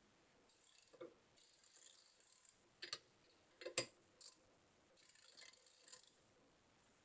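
A few faint clicks and knocks of bike parts and tools being handled during wheel fitting, against near silence; the sharpest knock comes a little past halfway.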